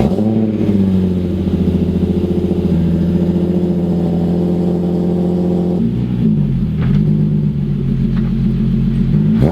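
Nissan 350Z's VQ35HR V6 running, its exhaust note steady, with a brief dip and rise in engine speed about six seconds in.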